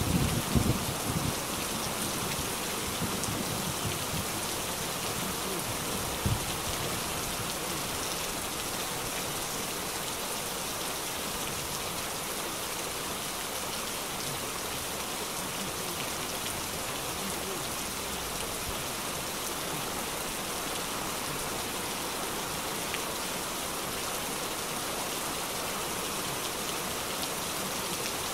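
Heavy rain pouring steadily onto a wet street, a dense even hiss of splashing drops. A low rumble dies away in the first second or so, and there is a brief low thump about six seconds in.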